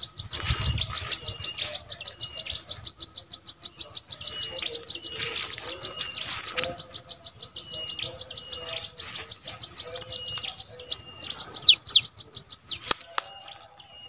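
Small birds calling: a fast, even trill of high notes with short high chirps repeating over it, and a few louder, sharper chirps near the end.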